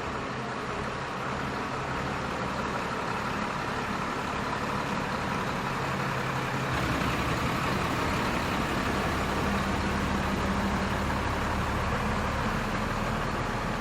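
An engine running steadily with a low hum under a broad noise, slightly louder from about seven seconds in.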